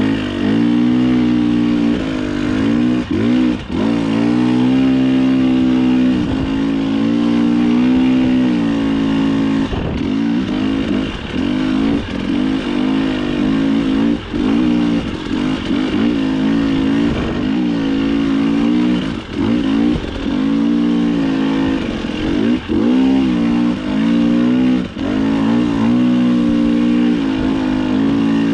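Dirt bike engine revving up and down over and over under a rider's throttle, with the pitch climbing and dropping back every second or two and brief dips where the throttle is shut off.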